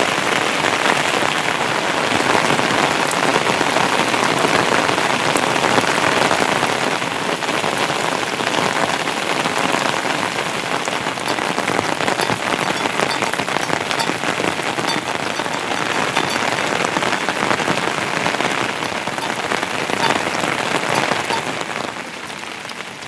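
Heavy rain falling steadily, a dense patter of drops striking surfaces; it gets quieter near the end.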